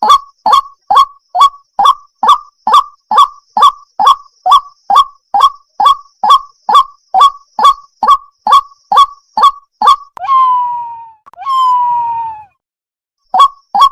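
Water hen calling: a fast, even run of short clipped notes, a little over two a second. About ten seconds in it gives two longer calls that fall slightly in pitch. After a brief silence the quick notes start again near the end.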